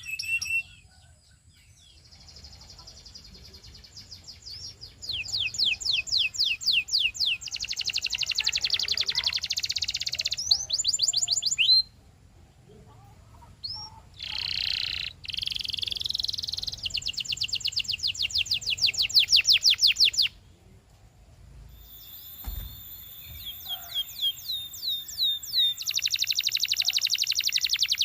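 Domestic canary singing in phrases of rapidly repeated notes and fast trills, with a few short pauses between phrases.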